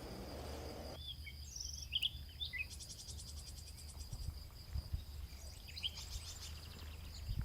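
Faint outdoor birdsong: scattered short chirps and twitters from small birds, with a brief rapid high trill about three seconds in, over a low steady hum.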